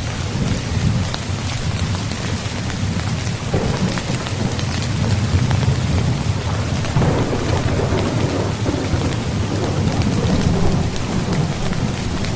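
Steady heavy rain drumming on a tent. A deep rumble runs beneath it and swells about a third of the way in and again a little past halfway.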